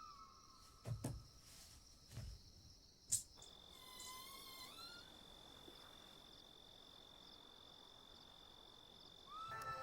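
Crickets chirping in a quiet night scene, with a few soft knocks in the first three seconds and a thin steady high tone through most of the rest.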